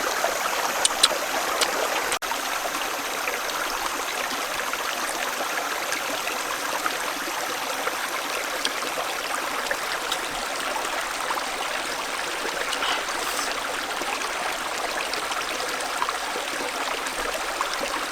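Steady rush of running water, with a few faint clicks in the first couple of seconds.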